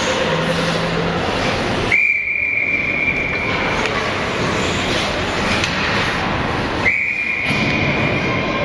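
Ice hockey referee's whistle blown twice, two steady high blasts of about a second and a half each, roughly five seconds apart, over the steady background noise of the rink.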